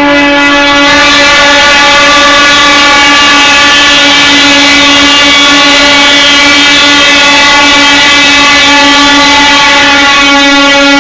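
A truck's horn sounding in one long, unbroken blast at a single steady pitch, loud enough to push the recording to full scale; it begins suddenly.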